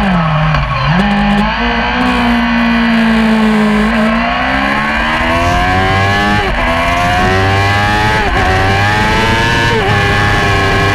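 Yamaha R6's inline-four engine racing at high revs. The revs fall steeply at the start as the bike slows for a corner, then climb again under hard acceleration, with three quick upshifts in the second half.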